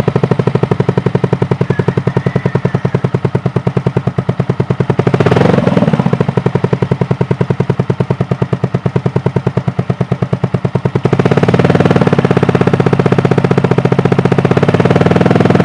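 Yamaha Mio 115 scooter's single-cylinder engine running through a Nob1 Titan aftermarket exhaust, with a rapid, even popping beat at idle. A brief blip of the throttle about five seconds in, and about eleven seconds in it steps up to a louder, faster idle.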